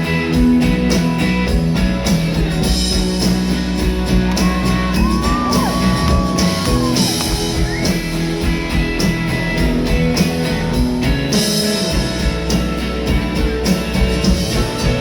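Live rock band playing an instrumental break in the song, with guitar and drums. A held, bending high note rises a little and falls away about five seconds in.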